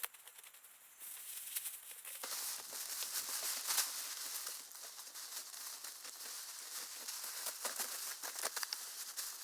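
Dense crinkly rustling and crunching made up of many small clicks, changing in character about a second in.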